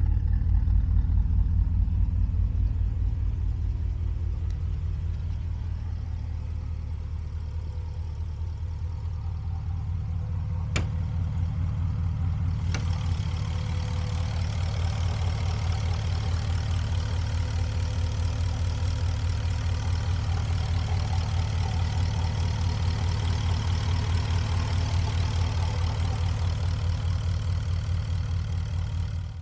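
Porsche Cayenne Turbo S twin-turbo 4.5-litre V8 idling steadily through an Eisenmann aftermarket exhaust, heard first at the tailpipes. After a couple of clicks about 11 and 13 seconds in, it is heard from the open engine bay, with more high-pitched mechanical noise over the idle.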